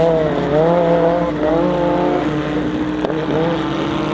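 Audi Sport Quattro S1 E2's turbocharged five-cylinder engine revving, its pitch rising and falling in several quick swells. A second, steadier engine note runs beneath it.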